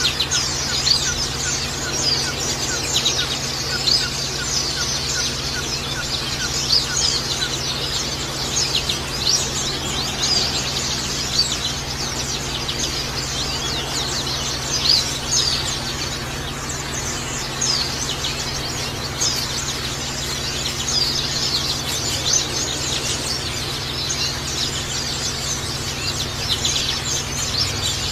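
Small songbirds chirping and twittering in rapid, dense bursts of high chirps that go on without a break, over a steady bed of trickling water.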